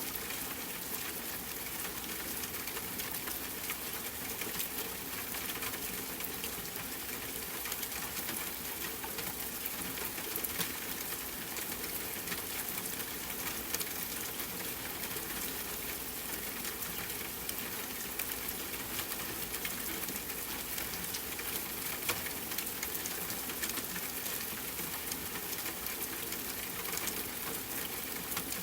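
Steady rain hissing, mixed with the light crackle of a wood fire, with small pops scattered throughout.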